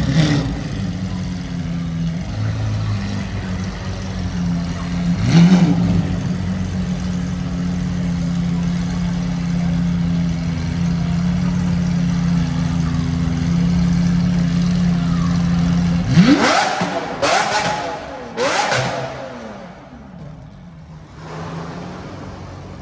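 A car engine idling with a steady low drone, blipped once about five seconds in, then revved sharply three times in quick succession near the end, after which the engine sound drops away.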